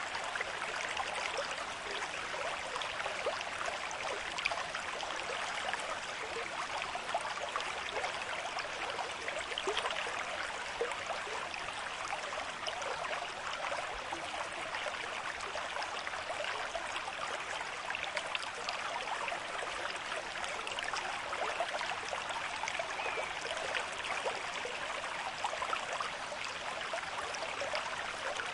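River stream with moderate flow, water rushing and splashing over rocks in a steady, even babble.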